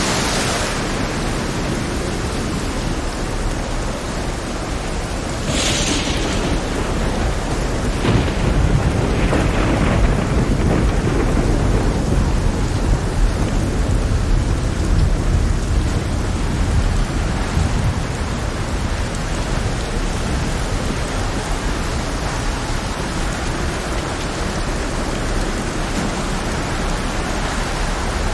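Heavy rain hissing steadily, with deep rolling thunder that swells about a third of the way in and rumbles on for many seconds. Short, brighter gusts of hiss rise over the rain a few times.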